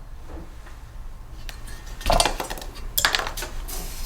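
Metal engine parts and tools clinking and clattering on a workbench as they are handled, in several short bursts after a quieter first second or so.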